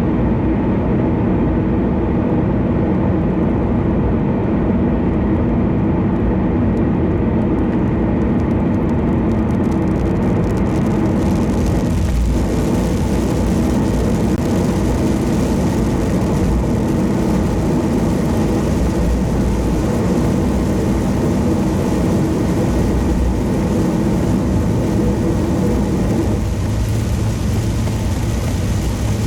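Steady road noise from a car cruising on an expressway: a low tyre and engine rumble, with a higher hiss that joins about a third of the way in.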